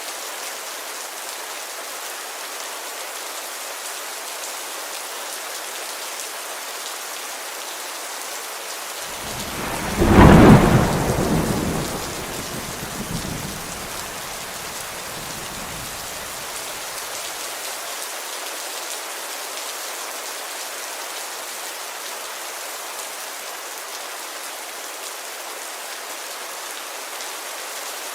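Steady rain falling on a window glass, with a clap of thunder about ten seconds in, the loudest sound, that rolls and fades away over the next several seconds.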